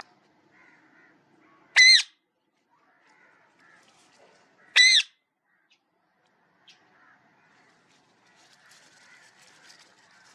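Parrot giving two loud, short squawks about three seconds apart, each rising and falling in pitch.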